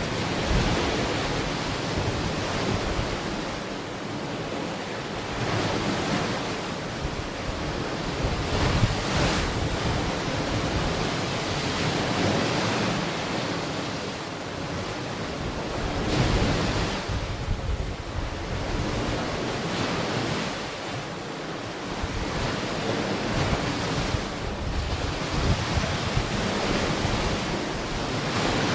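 Ocean waves breaking and washing onto a shore, swelling and ebbing every few seconds, with wind buffeting the microphone.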